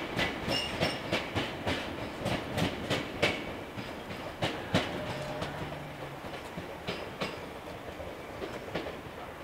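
Tobu 50090-series electric train's wheels clacking over rail joints, a few sharp clacks a second that grow fainter as the train moves away. A brief low hum rises about five seconds in.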